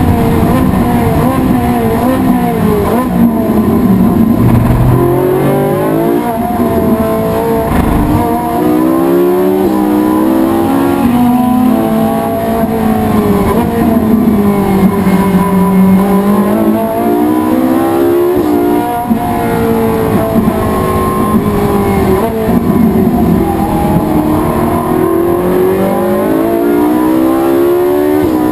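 Race car engine driven hard on track, its pitch climbing through the revs, dropping and climbing again as it accelerates, shifts gear and slows for corners.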